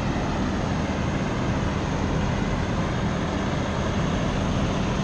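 Semi truck idling: a steady, unchanging rumble with a constant low hum.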